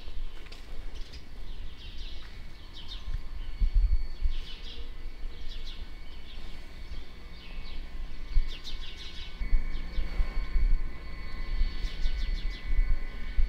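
Small birds chirping in short, repeated bursts, over a steady faint hum and an uneven low rumble.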